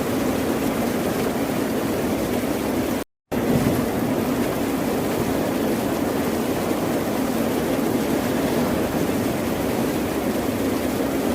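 Ocean surf: a steady, dense wash of waves breaking. The sound cuts out completely for a moment about three seconds in, then resumes.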